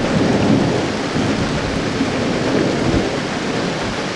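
Rain falling steadily with a low rumble of thunder that eases off slightly.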